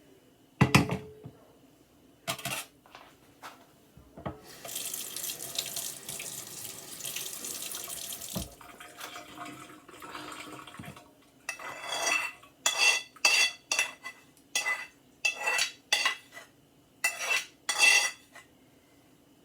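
Kitchen sink sounds: a few knocks of dishes, a tap running into the sink for about four seconds, then a quick run of ringing clinks of dishes near the end.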